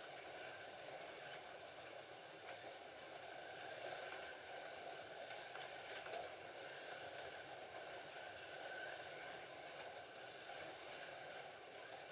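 Several Scalextric slot cars racing around a plastic track, a steady whirring of their small electric motors and guides running in the slots.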